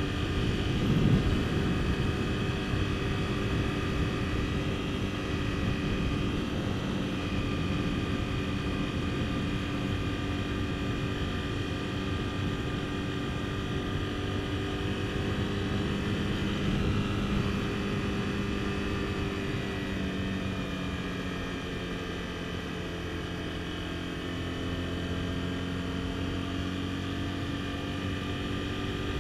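Honda CBR250R's single-cylinder engine running steadily as the motorcycle cruises. Its note sags slightly about two-thirds of the way through, then rises again.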